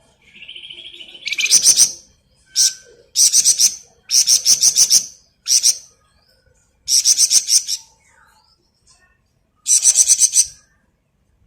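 Flamboyan songbird singing in rapid rattling bursts (the 'ngebren' song kept birds are trained on). It opens with a steadier buzzy note about a second long, then gives about six fast stuttering bursts, each under a second, with short gaps between.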